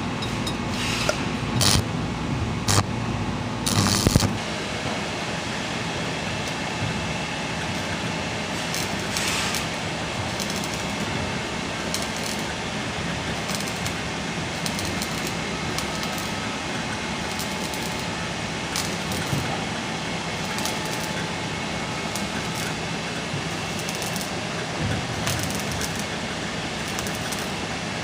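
Electric arc welding on a pipeline: a steady crackling hiss with irregular sharper pops. In the first few seconds there are several metallic clinks and a low hum that stops about four seconds in.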